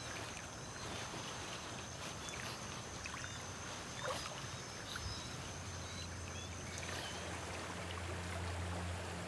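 Water sloshing and splashing as a beaver works mud into its dam, with a steady high whine and a few faint chirps. A low music drone swells in from about halfway through.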